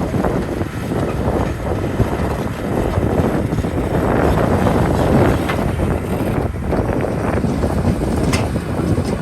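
Heavy diesel earthmoving machinery working: a steady, loud, low rumble that swells around the middle and eases toward the end.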